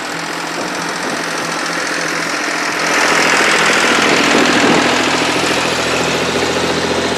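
Engine of road-working machinery running steadily, growing louder about three seconds in.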